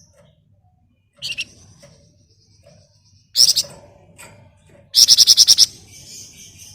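Flamboyan songbird singing in short, sharp, high-pitched calls about a second in and again past three seconds, then a loud, rapid chattering run of about ten notes near five seconds that trails off into a thin high trill.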